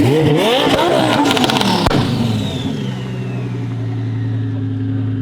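Car engine revved hard several times in quick rises and falls, with sharp crackling pops. A high whine falls away as it drops back to a steady idle.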